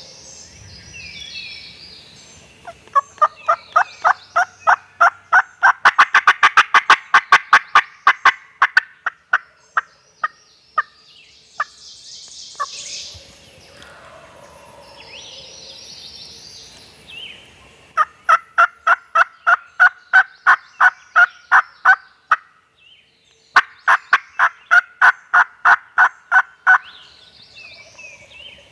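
Wild birds calling in three long runs of loud, evenly spaced notes, about four a second, each run lasting several seconds. Fainter, higher bird calls come in the pauses, with wild turkeys gobbling.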